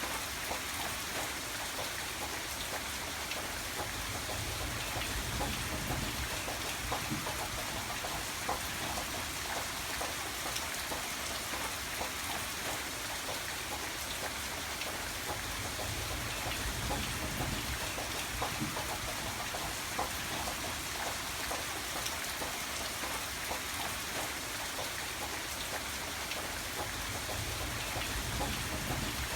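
Steady rain falling, an even hiss with many small drop taps. A low rumble swells and fades three times.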